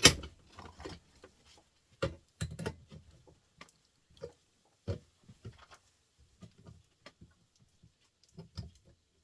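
Scattered clicks and light knocks of pliers and small metal parts being handled as a small electric motor is pulled apart by hand. A sharp knock comes right at the start.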